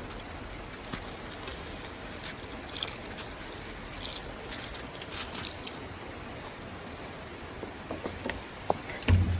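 Campfire in a small fire-pit stand being put out: a steady hiss with scattered crackles and ticks, and a dull knock near the end.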